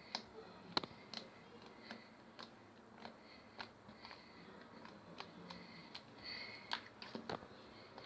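Fluffy slime being squeezed and poked by hand, giving irregular small clicks and pops, about a dozen of them.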